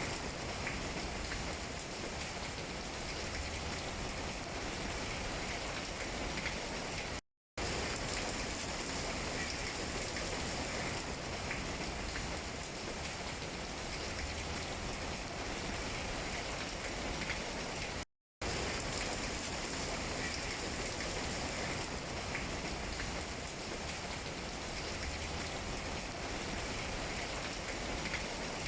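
Steady rain falling on tree leaves: a constant hiss with faint scattered drop taps. The sound cuts out to dead silence for a split second twice.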